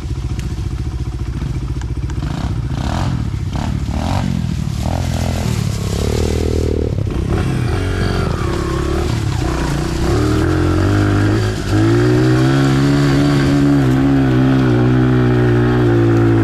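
Small dirt bike's engine pulling hard up a steep hill, with some knocking and rattling in the first few seconds. It gets louder about ten seconds in and then holds a high, steady rev, with a brief dip just before twelve seconds.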